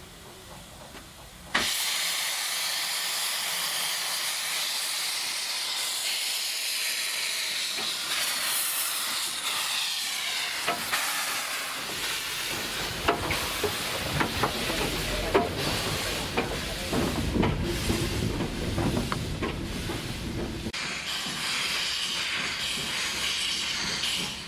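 Steam locomotive, a Stephenson 0-4-0 saddle tank, letting off steam in a loud continuous hiss that starts abruptly about a second and a half in and stops near the end. Through the middle stretch there is a low rumble with scattered clanks and knocks.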